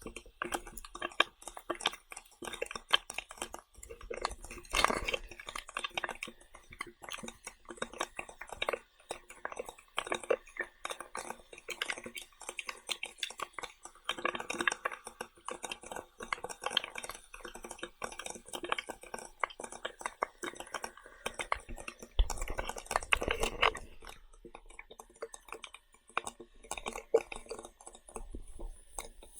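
Someone eating close to the microphone: chewing, with a steady run of small irregular clicks and crackles.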